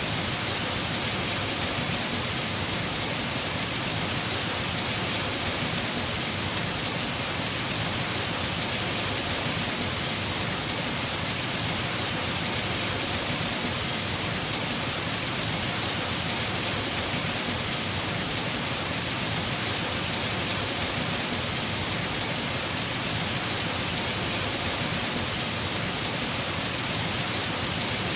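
Heavy rain drumming steadily on a house roof, an even, unbroken hiss of drops with no thunder claps.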